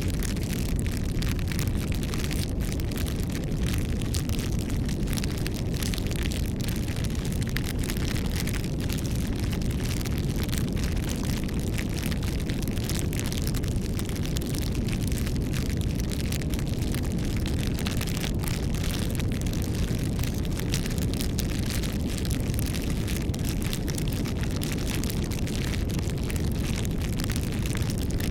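Campfire burning: a steady low rushing of flames with many small crackles and pops from the wood throughout.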